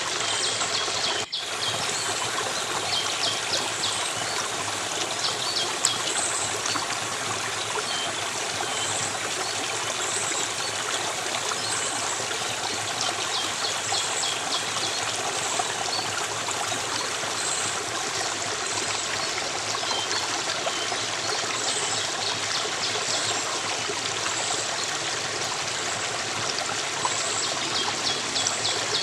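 Steady flowing stream of water, with faint high chirps repeating every second or two. There is a brief dropout in the sound about a second in.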